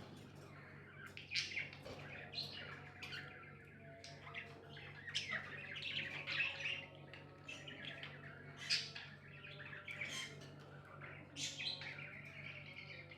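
Pet budgerigars chattering: a busy, irregular stream of short chirps, warbles and squawks.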